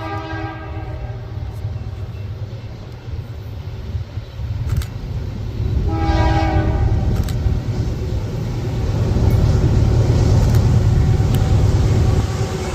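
Diesel freight locomotive horn: a blast fades out about a second in and a short second blast sounds about midway. Under it the heavy low rumble of the train grows louder as it draws near and passes, with scattered sharp clicks from the wheels on the rails.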